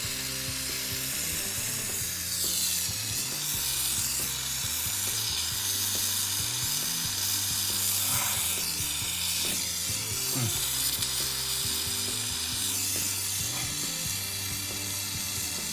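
Jeweler's bottled-gas soldering torch hissing steadily as it heats sterling silver fittings and solder paillons to soldering temperature. Faint music plays underneath.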